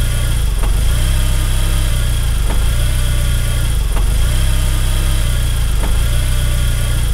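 Saab 9-5 Aero's turbocharged 2.3-litre four-cylinder engine idling steadily in first gear with the brake held while the clutch is slowly let out, a test that loads the engine to show excessive engine movement, which the owner puts down to a worn torque rod bushing. A faint pulse recurs about every second and a half to two seconds.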